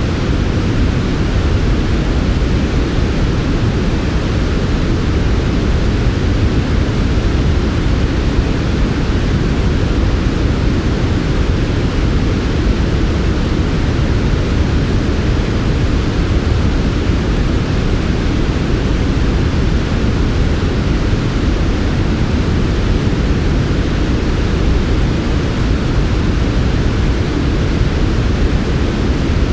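Steady synthetic sleep noise, a smooth, unbroken hiss weighted toward the low end with a deep rumbling base and softer highs. It does not change.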